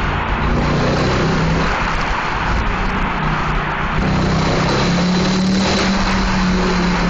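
Mercedes-AMG C63's V8 engine and exhaust running loud under steady throttle, echoing in a road tunnel; the engine note steps up slightly about four seconds in and holds.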